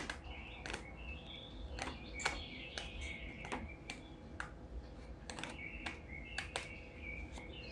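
Irregular light clicks and taps, a couple every second, over a quiet room.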